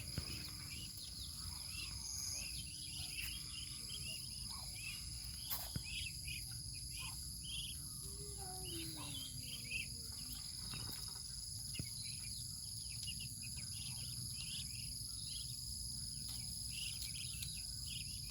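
Insects, crickets among them, shrilling steadily at a high pitch, with many short high chirps scattered irregularly over a low background hum.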